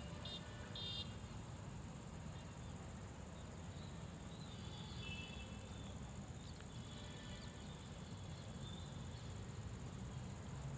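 Outdoor ambience: a steady high-pitched drone of insects, over a low rumble, with a few faint bird chirps in the middle.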